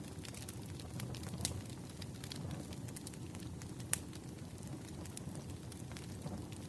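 Firewood burning: a steady low rumble of flames with scattered crackles and pops, the sharpest pop about four seconds in.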